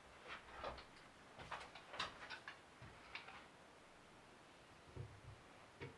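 Near silence with faint, scattered light clicks and taps, irregular and unevenly spaced, quietest in the middle.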